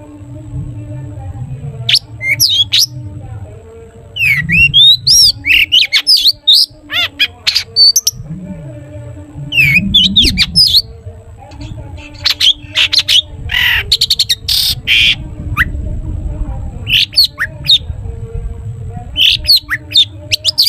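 Long-tailed shrike (cendet) singing in quick phrases of sharp, high notes and sweeping whistles, broken by short pauses, with a harsher scratchy stretch a little past the middle. A steady low hum runs underneath.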